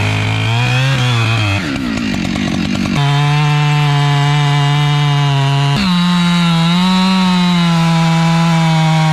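Husqvarna 592 XP two-stroke chainsaw running at high revs, cutting through heavy wood. Its pitch dips and rises near the start, then holds steady with a few abrupt shifts in pitch.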